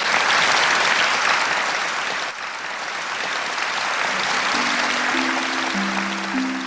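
Audience applauding steadily after a closing thank-you. From about four seconds in, a slow run of single plucked notes, harp-like, comes in under the applause.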